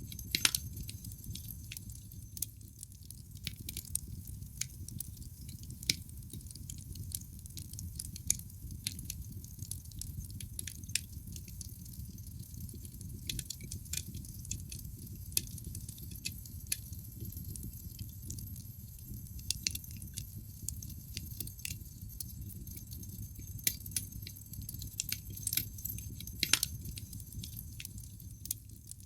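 Wood fire burning in a fireplace: irregular sharp crackles and pops of the logs over a low, steady rumble of the flames, with a louder snap about half a second in and another near the end.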